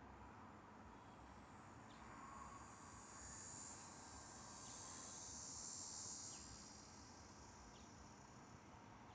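Faint high-pitched insect trilling that swells for a few seconds in the middle and then fades back, over a thin steady high whine, with a few brief faint chirps.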